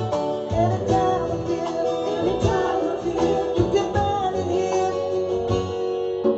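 Acoustic guitar played live, strummed chords with picked notes ringing.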